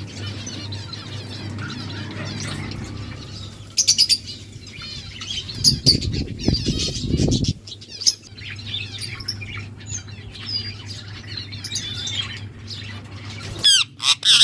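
Small pet parrots, lovebirds and budgies, chirping and squawking, with quick overlapping calls and a few louder sharp calls near the middle and end. About six seconds in there is a low fluttering rumble, with a steady low hum underneath.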